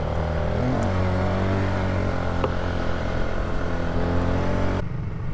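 Polaris ATV engine running under throttle. Its pitch rises about half a second in, holds steady, then eases off near the end as the throttle is let off.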